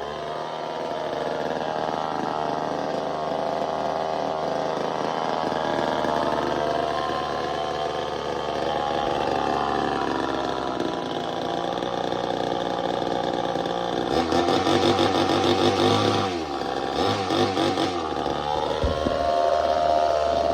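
Early-1970s Craftsman chainsaw, a rebadged Poulan, with its small two-stroke engine running steadily after being revived, then revved in a run of quick throttle blips about two-thirds of the way through.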